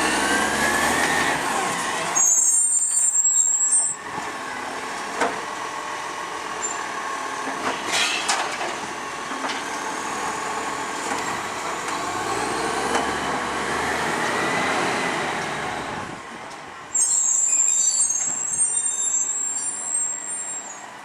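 ACCO side-loader garbage truck's diesel engine running, its pitch rising as it powers up and falling back toward idle several times. Two loud hisses of air brakes: one about two seconds in and a longer one about seventeen seconds in.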